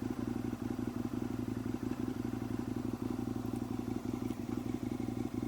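2014 Aprilia Tuono V4's V4 motorcycle engine running at a steady, even speed with a fast, rapid firing pulse, then stopping abruptly at the very end.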